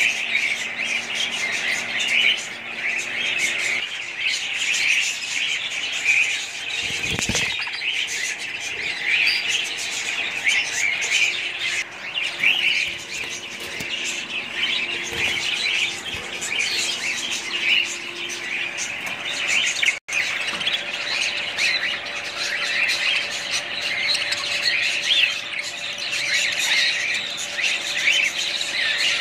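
A flock of budgerigars chirping and chattering continuously in a dense, overlapping twitter.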